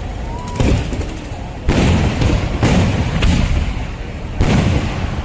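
Kerala temple fireworks (vedikkettu): a rapid series of heavy explosions, about five loud bangs roughly a second apart, each followed by a rumbling echo.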